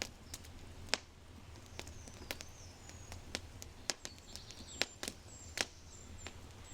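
Oak fire crackling in a brick fireplace, with irregular sharp pops, several of them loud. In the second half, birds give short high chirps.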